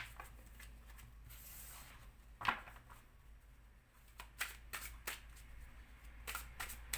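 Tarot cards being shuffled and handled, a series of short card snaps and slaps, sparse at first and coming quickly in the second half.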